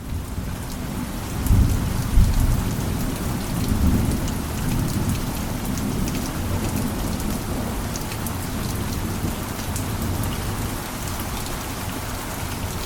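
Steady heavy rain pattering on a surface, with a rolling low rumble of thunder that swells about one and a half seconds in and dies away over the next few seconds.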